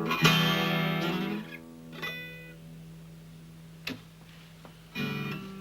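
Acoustic guitar ending a song: a strummed chord about a quarter second in, left ringing and slowly fading, with a light pluck around two seconds and another short strum near the end.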